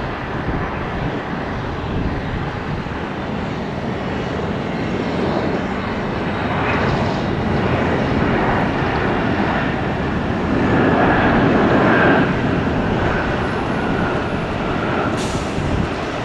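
Jet airliner engines running as the aircraft passes. The noise swells to its loudest about ten to twelve seconds in, with a steady high whine, then eases off near the end.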